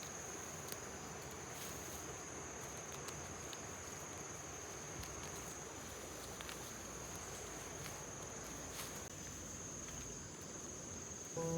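Insects chirring steadily on one high, unbroken tone, with a few faint ticks.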